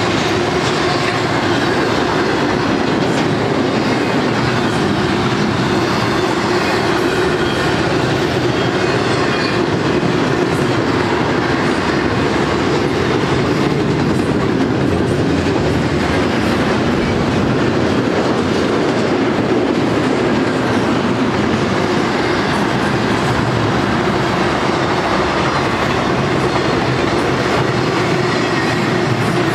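Double-stack intermodal freight train's well cars rolling past close by, a loud, steady rumble and clatter of steel wheels on the rails.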